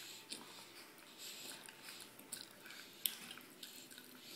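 Quiet dinner-table sounds: faint chewing and a few light clicks of a fork on a china plate, the sharpest about three seconds in.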